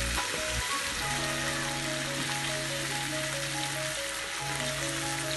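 Spiced onion masala sizzling in a frying pan as the fried quails go in, with a few low knocks at the start. Background music with held notes comes in about a second in.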